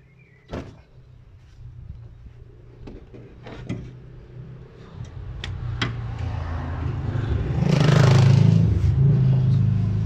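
A motor vehicle's engine running with a steady low hum that grows louder over several seconds and peaks about three-quarters of the way through, with scattered sharp clicks.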